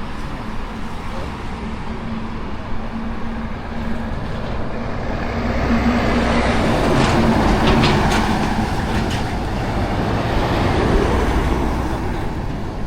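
Vehicle engine and road noise with a steady low hum, growing louder through the middle and easing off again.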